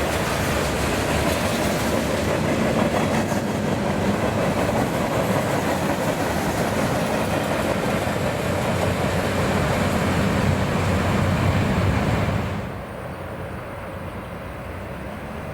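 CSX freight train rolling past, its cars' steel wheels rumbling and rattling on the rails. The sound drops to a quieter, duller rumble about twelve seconds in.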